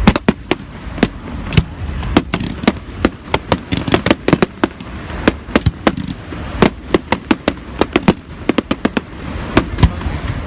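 Fireworks display: a rapid, irregular barrage of sharp cracks and bangs, several a second, over a low rumble of distant bursts.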